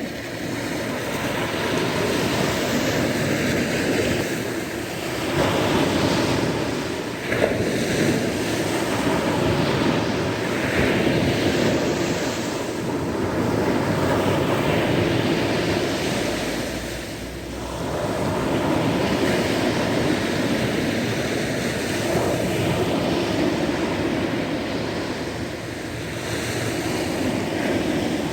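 Sea waves surging and washing onto a shore: a continuous rushing surf noise that swells and eases, dropping off briefly twice before building again.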